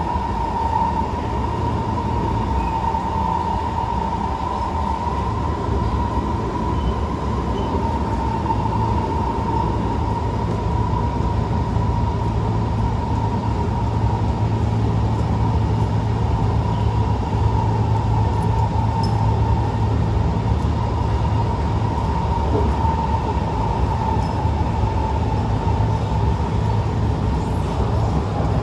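Inside a Kawasaki C151 metro train car running between stations: a steady rumble of the wheels on the track, with a constant high whine over it.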